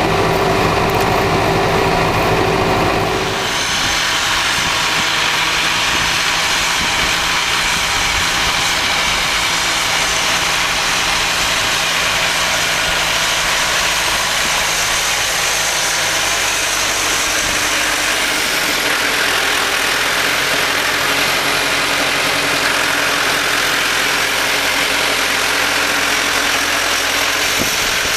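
Massey Ferguson 3075 tractor's diesel engine running steadily while ploughing, its tone changing abruptly about three seconds in to a noisier, higher sound.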